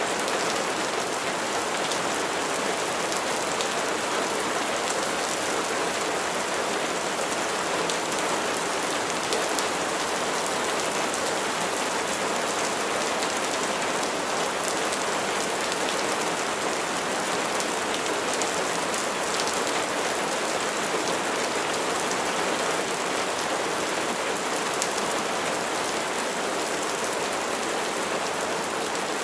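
Steady rain falling: an even hiss of many drops, with faint ticks of single drops hitting a surface.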